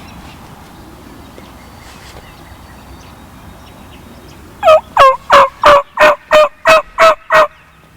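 A run of about nine loud turkey yelps, spaced roughly a third of a second apart. Each note drops in pitch. The run starts about halfway through and stops shortly before the end.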